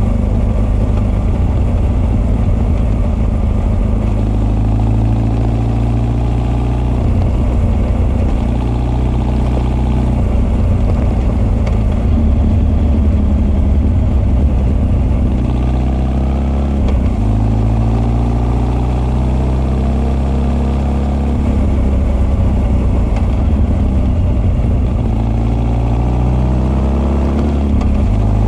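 Honda CB1300 SF's inline-four engine, breathing through Keihin FCR41 carburettors and an r's gear Wyvern exhaust, pulling steadily under way at moderate revs. The pitch wavers with the throttle, dips briefly about two-thirds of the way through, and rises near the end as the rider opens it up.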